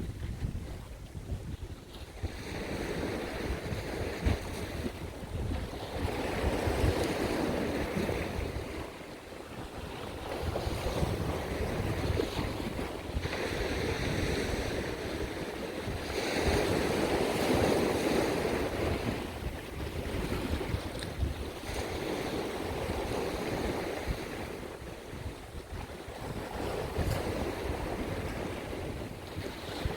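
Sea waves surging into a rocky coastal blowhole and washing back out in repeated swells every few seconds. Wind buffets the microphone throughout as a low rumble.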